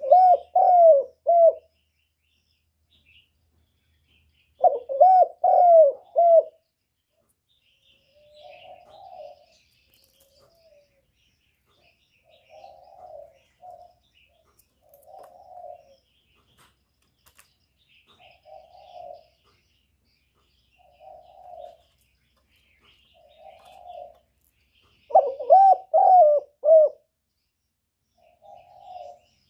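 Spotted dove cooing: three loud phrases of several rolling notes, each about a second and a half long, near the start, about five seconds in and near the end. Between them come softer single coos every second or two. Faint chirps of small birds sit in the background.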